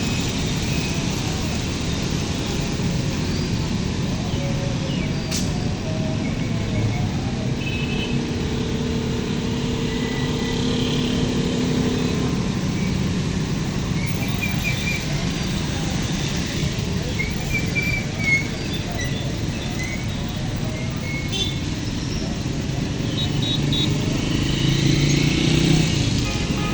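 Street traffic: motor vehicle engines running and passing, one growing louder near the end.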